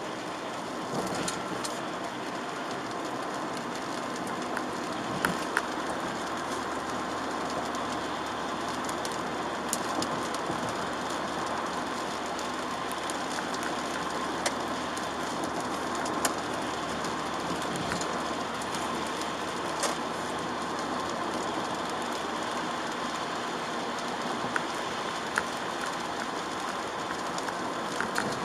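Steady road and tyre noise inside a Chevrolet Aveo's cabin while driving on wet roads in the rain, with a faint steady hum and scattered sharp ticks every few seconds.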